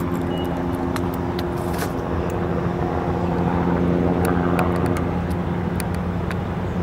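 A vehicle engine running steadily, an even hum with scattered light clicks and knocks.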